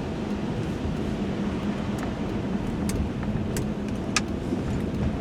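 Inside a 1995 Chevrolet Monte Carlo while driving: steady engine hum and tyre noise on a wet road, with a few light clicks in the second half.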